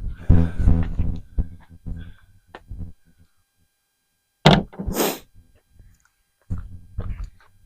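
Objects being handled and set down, knocking and clattering in three bursts, with a sharp thunk and a short scrape about four and a half seconds in.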